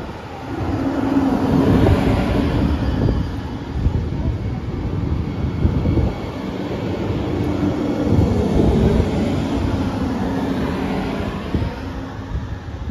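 A passenger train passing close by: wheels rumbling on the rails with a steady hum. It is loudest about two seconds in and again around eight seconds in, then fades.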